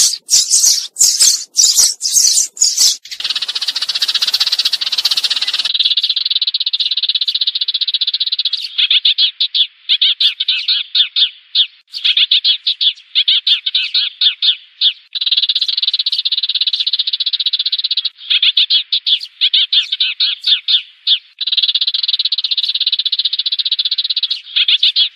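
Sparrows chirping in rapid chattering runs: a sparrow flock call of the kind played as a lure to draw sparrows in. Sharp, full chirps come first, then a few seconds of hiss, then thinner, quick-fire chirp runs that stop and start every second or two.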